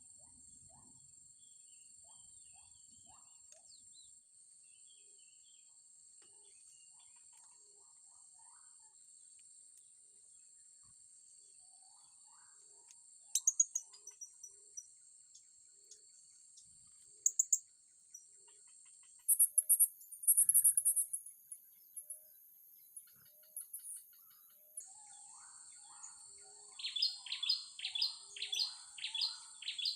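Blue-crowned hanging parrots (serindit) giving shrill, high chirps over a steady high insect drone: scattered single calls, a loud flurry about twenty seconds in, then a fast run of descending chirps, about three a second, near the end.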